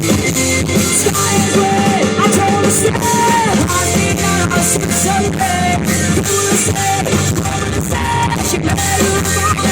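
A live rock band playing loud, with drum kit, electric guitar and bass under a singer's voice.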